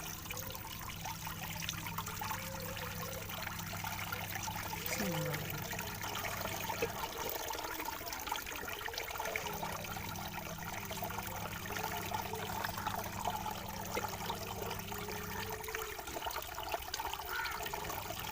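Water running and splashing as eggs are washed by hand. A low steady hum underneath cuts out about seven seconds in, returns, and cuts out again near the end.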